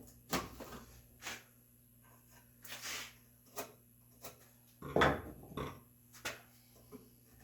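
Irregular wooden knocks and taps, about nine spread over several seconds, as red oak parts and hand tools are handled while fitting a joint; the loudest knock comes about five seconds in, and a brief scraping sound comes near three seconds.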